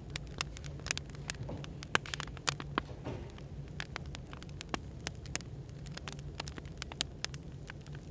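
Wood fire crackling, with irregular sharp pops several times a second, over a steady low background hum.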